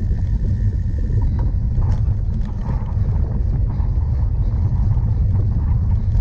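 A cyclocross bicycle rolling over rough ground, with wind rumbling on the microphone and scattered rattles and clicks from the bike.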